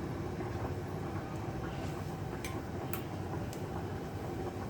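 A few faint clicks of a spoon against a mixing bowl as spoonfuls of masala go in, about halfway through, over a steady low background hum.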